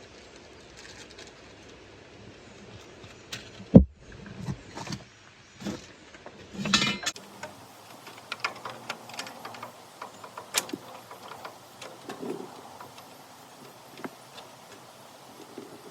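Small metal clinks and knocks of bolts and hand tools during work on a baler's pickup bands, with one sharp knock about four seconds in and a short rustle a few seconds later.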